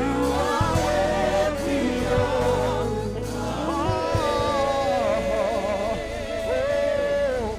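Gospel worship song: voices singing long held, wavering lines over a band with steady bass.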